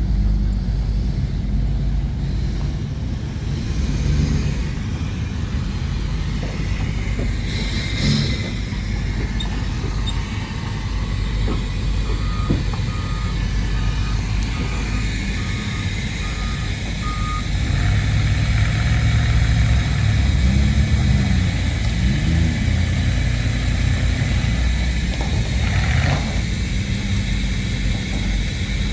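Vehicle engines running in the pits, with a reversing alarm beeping about seven times at an even pace near the middle. Later an engine's pitch rises and falls twice as it revs.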